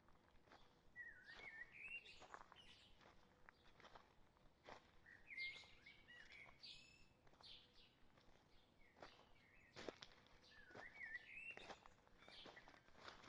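Faint birdsong in woodland: a songbird repeats a short warbled phrase three times, a few seconds apart. Footsteps on the forest trail make scattered soft clicks between the phrases.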